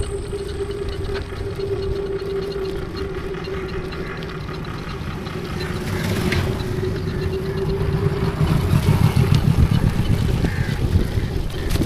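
Motorcycle engine running steadily while riding, with a steady low hum. From about eight seconds in, a louder low rumble of wind on the microphone builds over it.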